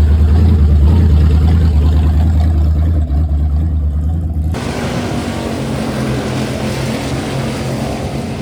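Race car engines running at a speedway: a heavy, loud low rumble that changes abruptly about four and a half seconds in to a steadier, more even engine noise.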